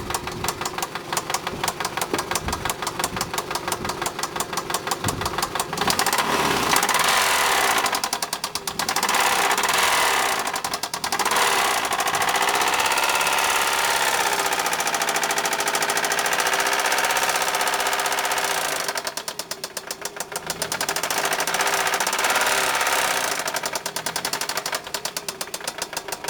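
1998 Toyota Camry engine idling with a fast, heavy rapping knock. It is revved up several times and drops back to idle, and the knock is still there. The owner puts this major rapping noise down to piston bearings or a bent rod, and an oil additive has not cured it.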